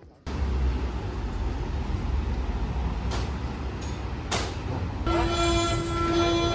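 Steady rumbling running noise of a train, starting abruptly. Near the end a steady pitched tone with overtones joins in.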